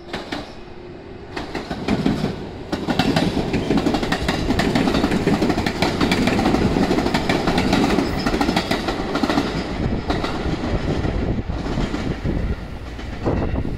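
JR West 117 series electric train passing close by, its wheels clattering rhythmically over the rail joints over a steady rumble. The sound swells about a second and a half in and eases slightly near the end as the train pulls away.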